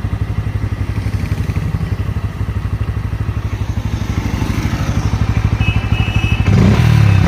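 Bajaj Pulsar N160's single-cylinder engine idling with even exhaust pulses, picking up a little, then revved sharply about six and a half seconds in. It is run to check an engine noise that persists despite a new clutch, cam chain tensioner and timing chain.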